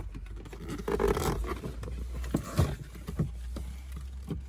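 Plastic car interior trim being forced loose by hand: scraping and rubbing with a string of small clicks and knocks, over a steady low hum.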